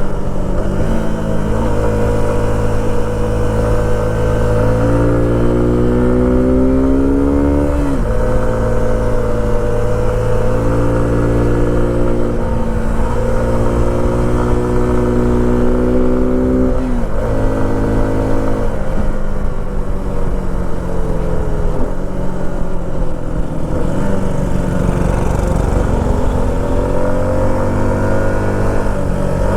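Suzuki V-Strom SX 250's single-cylinder engine accelerating, its pitch climbing and then dropping sharply as the rider shifts or rolls off the throttle, three times, over a steady low rumble.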